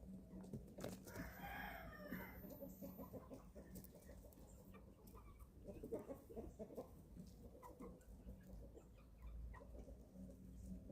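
Young chickens, about eleven weeks old, at feeding time: one drawn-out call about a second in, then faint short clucks and peeps, bunched together around the middle.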